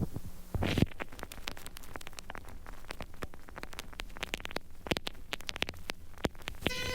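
Dense, irregular crackling: many sharp clicks and pops over a faint low hum.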